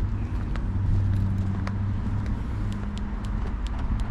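A car running: a steady low hum of engine and road noise, with a few faint ticks.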